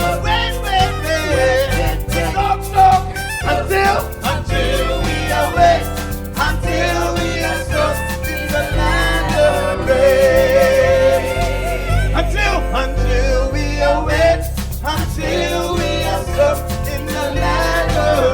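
Live gospel praise music from a church band: a steady bass and beat under a singer's voice holding wavering notes.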